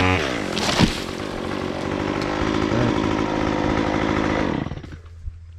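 Chainsaw engine dropping in pitch from a rev, then running steadily for a few seconds before it shuts off near the end.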